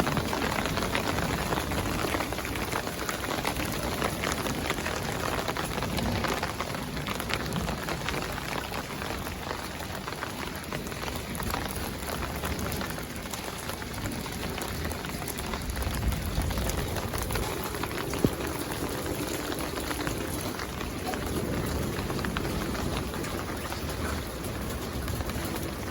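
Steady rain falling and pattering on surfaces, a dense hiss of many small drop ticks, with one sharper tick about eighteen seconds in.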